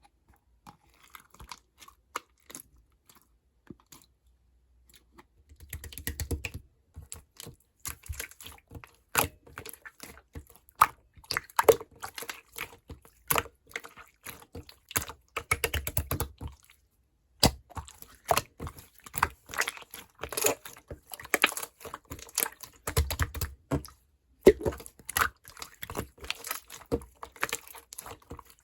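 Clear slime being squished and worked by hand, making irregular sticky clicks and small pops. The clicks are sparse at first and grow dense from about five seconds in, with a short break about two-thirds of the way through.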